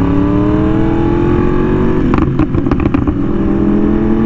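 Yamaha R1M's crossplane inline-four through an SC Project exhaust, pulling under acceleration with its pitch rising. About two seconds in there is a short break with a few sharp crackles, and the engine picks up again at a lower pitch and keeps climbing: a shift up a gear.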